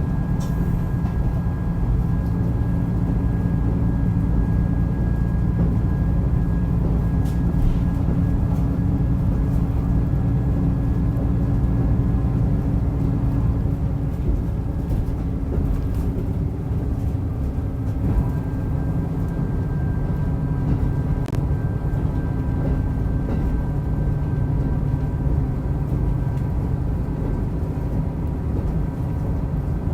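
Diesel railcar running at speed, heard from inside the car: a steady low engine and wheel rumble with a faint steady whine. A few light rail-joint clicks come through, the clearest about 18 and 21 seconds in.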